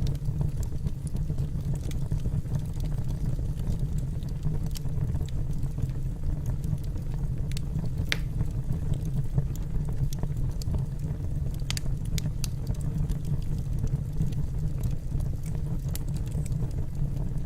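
Wood fire burning in a fireplace: a steady low rumble of the flames with scattered sharp crackles and pops from the logs, the loudest about eight seconds in.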